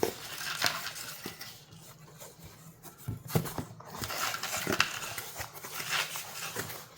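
Handling and unwrapping of packing material around rock specimens: irregular rustling and crinkling with a few light clicks and clinks.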